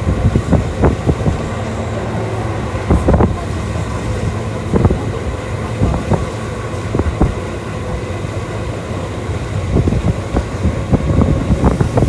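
Tokyu Toyoko Line electric commuter train running at speed, heard from inside the car: a steady rumble and motor hum, with irregular clicks and knocks of the wheels over the rails.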